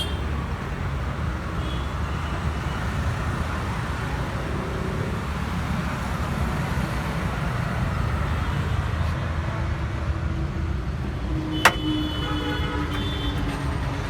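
Steady road traffic rumble, with a single sharp knock about twelve seconds in followed by a brief steady tone.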